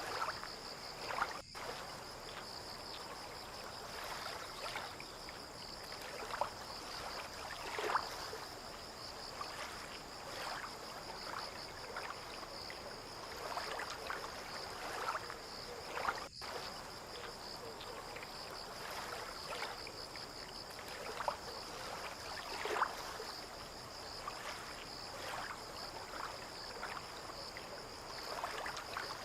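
Harbour water lapping irregularly against moored boats and the quay, in soft uneven splashes every second or two. Under it runs a steady high-pitched trill of insects.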